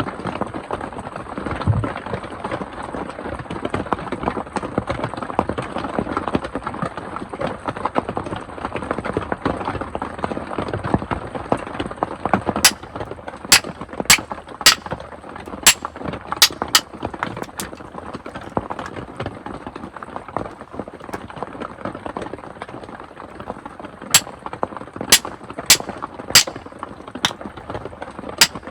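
Wood fire crackling under a steady rain-like hiss; about halfway through comes a run of sharp, loud pops, and another run near the end.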